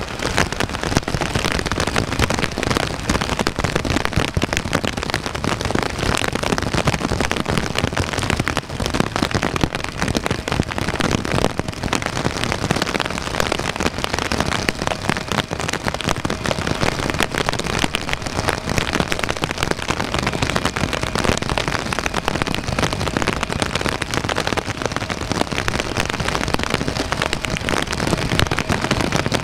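Heavy rain falling and pattering on nearby surfaces: a dense, steady hiss with constant crackling drops.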